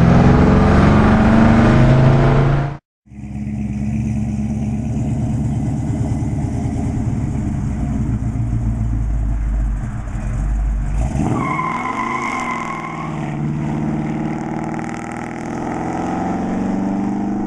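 1969 Dodge Super Bee's fuel-injected 440 V8, breathing through headers and Flowmaster mufflers, running as the car drives. There is a brief cut about three seconds in. About two-thirds of the way through, the exhaust note rises and falls.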